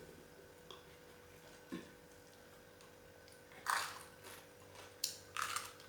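A person eating quietly: a couple of small clicks early, then a few short, louder bites and mouth noises from about halfway through to near the end, over a faint steady hum.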